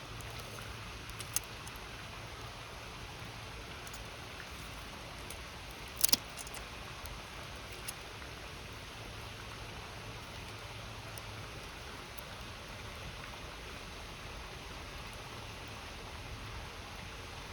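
Campfire crackling with scattered sharp pops, the loudest a quick double pop about six seconds in, over the steady rush of a river.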